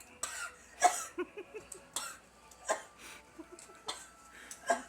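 A young child coughing in about six sharp bursts, with short gasping voice sounds between them, from the burn of a whole habanero pepper she has just eaten.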